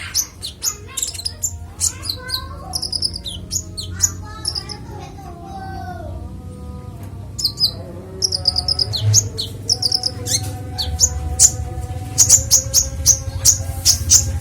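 A konin songbird sings its full repertoire in clear, varied phrases of quick high chirps, whistled notes and short trills, pausing briefly in the middle. A steady low hum runs underneath.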